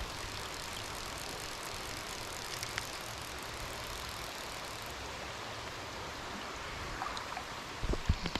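Steady hiss of rain falling on a creek, with a few dull thumps near the end.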